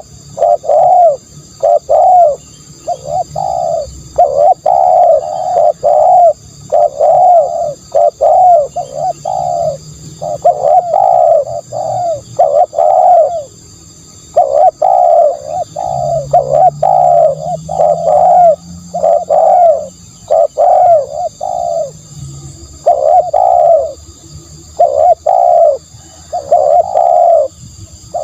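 Spotted dove cooing over and over, short coo notes in quick runs of about two a second, broken by brief pauses: a decoy call recording for luring doves.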